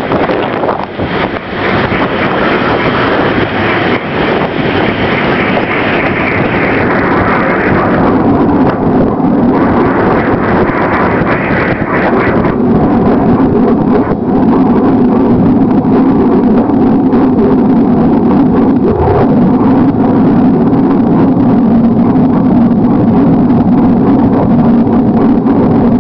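Train in motion: steady running noise with wind on the microphone. About twelve seconds in the hiss drops away and a steady low hum takes over, slightly louder.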